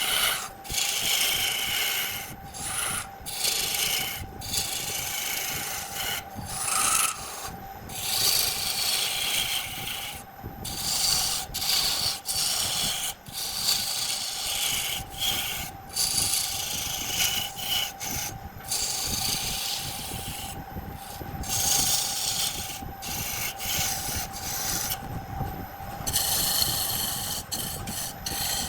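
Wood lathe running, with a turning tool cutting into the spinning wood in a long series of scraping passes that break off briefly and start again. The lathe's steady hum runs underneath.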